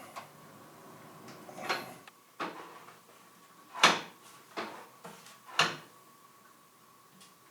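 Tools and metal parts knocking and clanking while being handled: about six sharp knocks, roughly a second apart, the loudest near the middle, over a faint steady hum.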